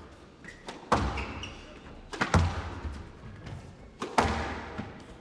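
Squash rally: a squash ball struck by rackets and hitting the court walls, sharp echoing hits about a second in, twice close together a little past two seconds, and again past four seconds, with a few short high squeaks between them.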